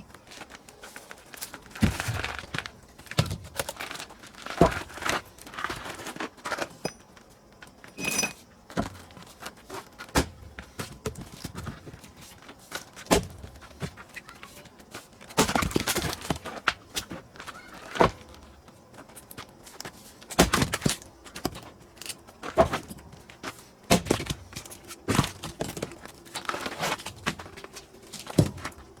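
Pine firewood being split by hand: sharp strikes on the wood at irregular intervals of one to three seconds, with pieces of wood knocking and rustling between the strikes.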